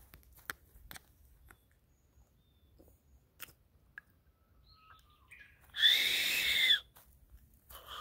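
A few footsteps on dry leaf litter in the first second, then a loud rasping bird call twice, each about a second long, the second starting just before the end.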